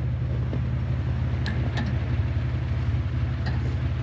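A vehicle engine idling steadily with an even low pulse, with a few faint clicks about halfway through and near the end.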